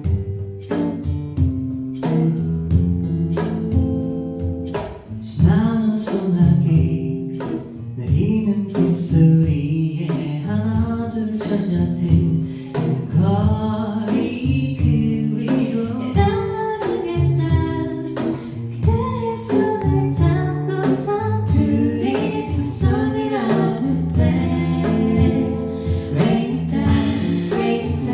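Live band playing a pop song with a steady beat, instrumental at first, with a voice singing over the band from about five seconds in.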